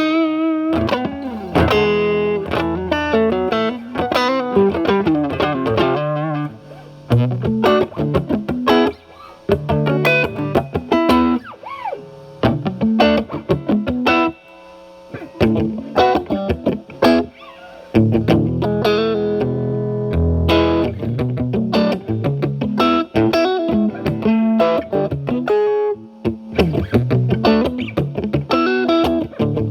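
Stratocaster with single-coil alnico pickups played through a Paul Cochrane Timmy overdrive pedal into a Marshall Valvestate amp's clean channel. The pedal's gain is at maximum and the guitar's volume is rolled back for a cleaned-up, lightly driven tone. Picked single notes and chords, with brief pauses.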